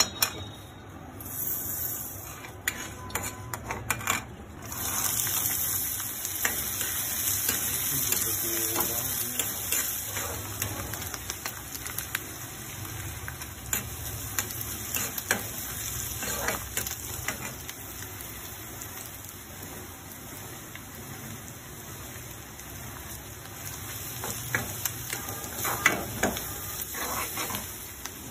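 Oil sizzling in an iron kadai as chopped onions and curry leaves fry, with a steel spoon stirring and clicking against the pan. The sizzle grows louder about five seconds in, and the spoon clicks come thicker near the end.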